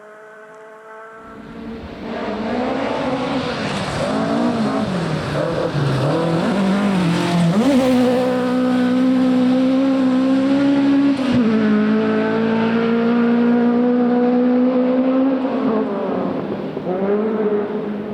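Rally car engine at full stage pace, revving up and down through the first seconds, then held high and steady, with a sharp drop in revs at a gear change about eleven seconds in and a brief lift near the end before it picks up again.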